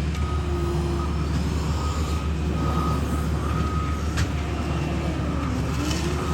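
Heavy diesel road-paving equipment running with a steady low rumble while its backup alarm beeps about once a second as it reverses; a sharp click sounds about four seconds in.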